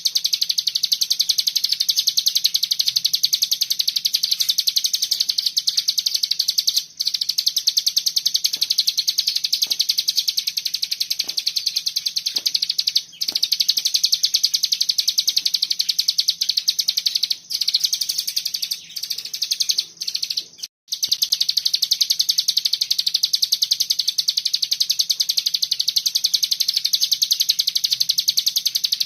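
A cigun songbird singing an unbroken, very fast, high chattering trill (the dense 'bren' song prized for tutoring other birds), with a few brief breaks.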